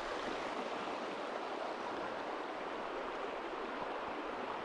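River water running steadily over rocks, an even rushing noise.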